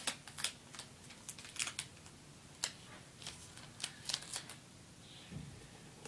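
Paper being worked by hand, folded, creased and cut: a string of irregular, sharp, crisp clicks and crackles.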